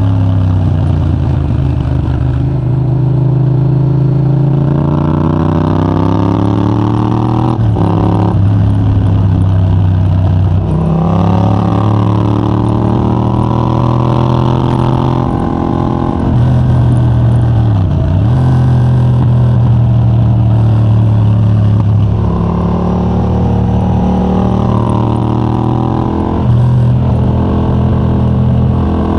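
Yamaha MT-07's 689 cc parallel-twin engine, through a de-catted Mivv GP Pro titanium exhaust with a 35 mm dB killer, under hard acceleration. The revs climb repeatedly, broken by quick gear changes, and fall and rise again a few times as the bike slows and pulls away.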